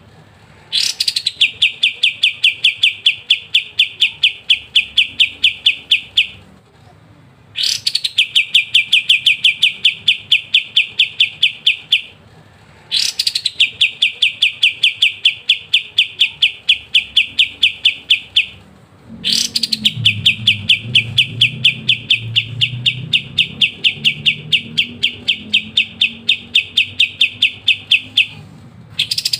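Kapas tembak songbird singing its fast 'ngebren' trill: a rapid, even run of high notes at about seven a second. Each bout opens with a quick downward-sliding note and lasts several seconds, and the bouts repeat four times with short pauses between them.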